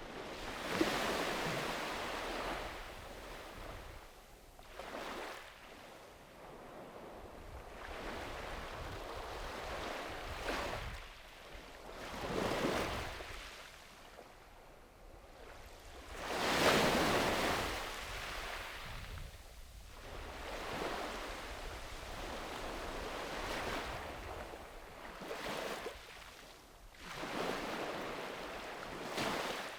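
Small sea waves breaking and washing up a sandy beach, each break a swelling hiss that dies away, about every three to five seconds; the biggest one comes about 17 seconds in. Wind rumbles on the microphone underneath.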